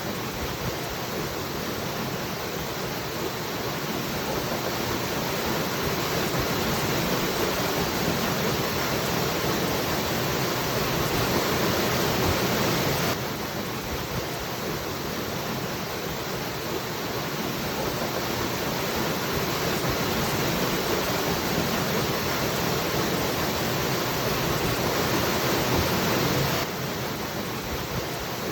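Waterfall rushing steadily. It swells slowly, drops suddenly about thirteen seconds in and again near the end, then builds once more.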